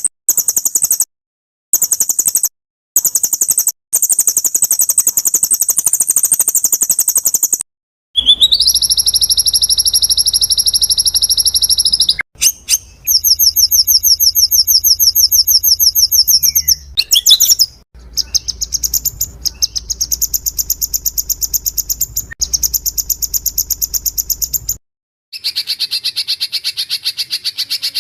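Recorded songbird calls edited together: a string of very rapid, high-pitched trills and chattering phrases, each clip ending abruptly. There are short silent gaps about a second in, near three seconds, around eight seconds and about 25 seconds in, and some clips carry a low hum of recording noise beneath the bird.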